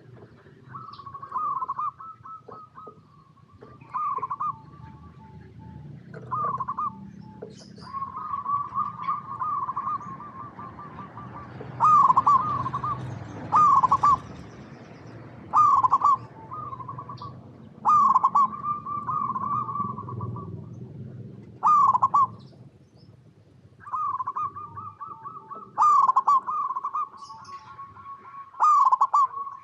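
Zebra dove cooing: repeated phrases of quick, rolling coos at a steady pitch, coming about every two seconds in the second half.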